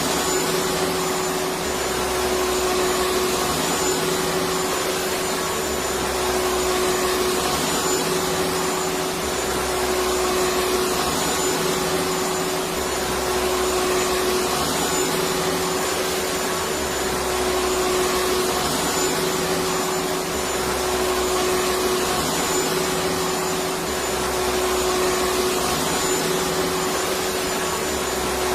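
Electric vacuum cleaner running steadily: a continuous rushing hiss with a steady motor hum.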